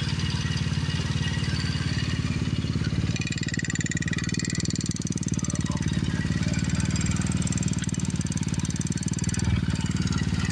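Roketa 180cc engine running steadily: a low, even drone with a fast firing pulse.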